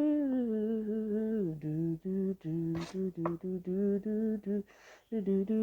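A solo unaccompanied voice singing wordless 'do do do' syllables. A held note glides down during the first second and a half, then short repeated notes step between two or three pitches, with a quick breath near the end.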